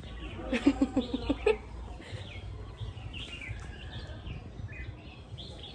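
Small birds chirping, a steady scatter of short high chirps. About half a second in comes a brief, louder burst of a person's voice lasting about a second.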